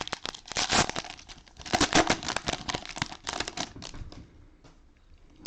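Cellophane wrapper of a trading-card cello pack being torn open and crinkled: a dense run of crackles that dies away after about four seconds.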